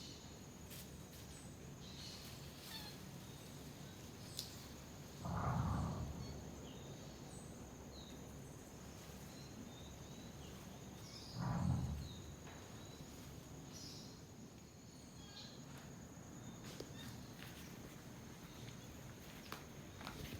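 Quiet tropical outdoor ambience with scattered short, faint high animal chirps, and two brief louder rustles, about five and about eleven seconds in.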